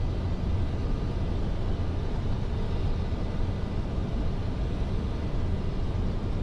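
Steady flight-deck noise of a Boeing 747-400 freighter on approach: airflow and engine rumble, strongest at the low end, with faint steady whines above it.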